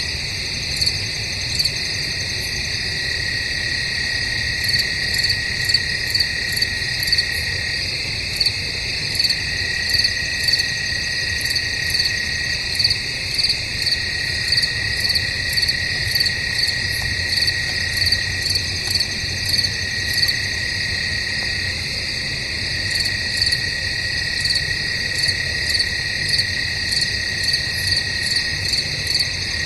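Chorus of crickets chirping: a steady high trill, with louder pulsed chirps repeating about one and a half times a second.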